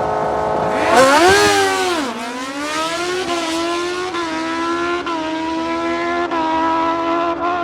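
A racing mini bike engine holds steady revs, then revs up sharply about a second in and drops back. It then climbs slowly in pitch in several small steps.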